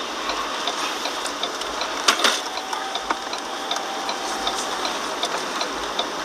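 Steady rush of wind-driven rain around a stopped vehicle, with a regular ticking about twice a second throughout and a brief louder rush about two seconds in.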